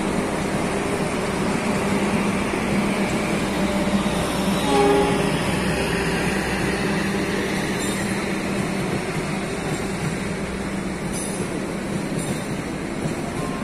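Passenger train running, a steady rumble with a low hum, and a brief tone that stands out about five seconds in.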